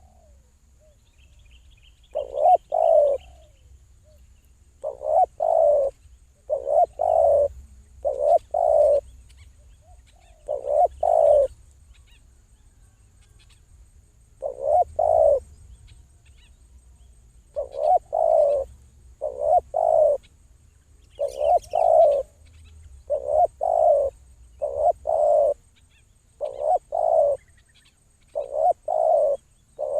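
A dove cooing over and over in short groups of two or three low coos, a group every second or two, with faint small-bird chirps in the background.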